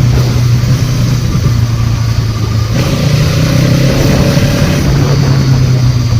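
Motorcycle engine running at a steady pace while riding, its note dipping briefly about halfway through, with a broad rush of wind and road noise over it.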